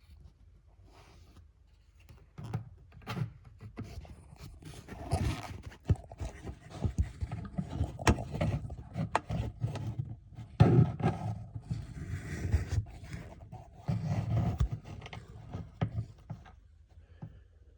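Irregular handling noise of scraping, rustling and sharp clicks and knocks. It starts a couple of seconds in, comes in louder patches, and dies away near the end.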